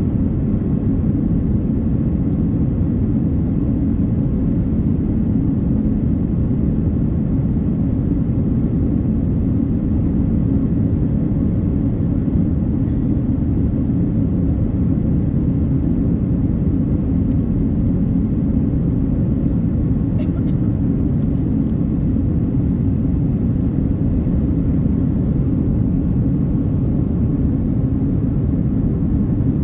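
Cabin noise inside an Airbus A330-900neo airliner: a steady low rumble of Rolls-Royce Trent 7000 engines and airflow, unchanging in level, with a few faint ticks near the end.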